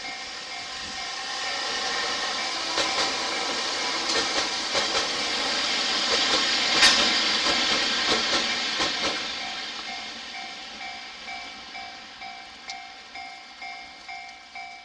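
A train led by ED75 AC electric locomotives passes. Its noise builds to a peak about seven seconds in and then fades, with wheels clicking over rail joints. From about ten seconds in, a level-crossing alarm rings in even pulses, about two a second.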